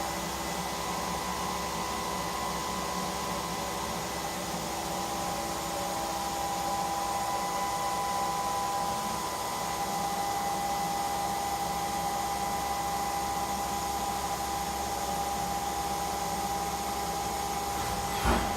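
Fanuc Robodrill D21LiA5 CNC drill/tap machine running its direct-drive spindle at 10,000 RPM while the 4th-axis rotary table turns: a steady whine over a hiss. A short sharp knock near the end.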